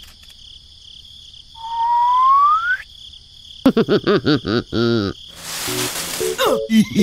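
Cartoon sound effects: a single rising whistle lasting about a second, then a quick run of bouncy warbling tones, then a short whoosh and a falling tone near the end, over a steady high-pitched background tone.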